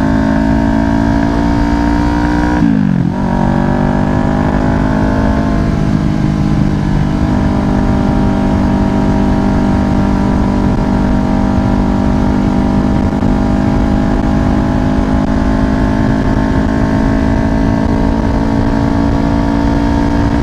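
Kawasaki Ninja 500's parallel-twin engine running under way, its pitch climbing slightly, then dropping sharply about three seconds in as it shifts up a gear, before holding a steady cruise with a slow rise.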